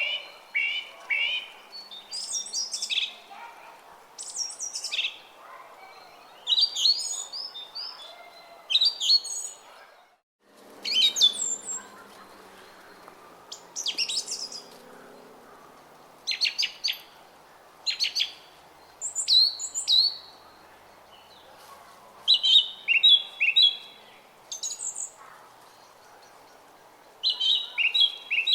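Small songbirds chirping and twittering in quick, repeated short phrases, over the faint steady babble of a brook. About ten seconds in, all sound drops out for a moment, then resumes.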